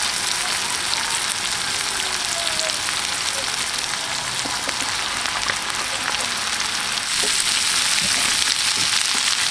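Freshly added green beans sizzling in hot oil in a stir-fry pan, a steady dense crackle with small clicks. It gets louder about seven seconds in.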